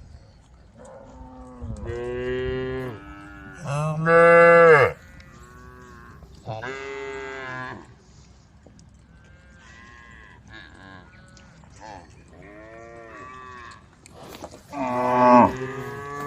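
Cows in a herd mooing, one after another, about six or seven calls in all. Some are close and loud, the loudest about four seconds in and near the end, and others are fainter and farther off.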